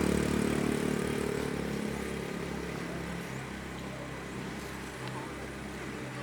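A motor engine running with a steady hum, loudest at the start and fading over the first couple of seconds.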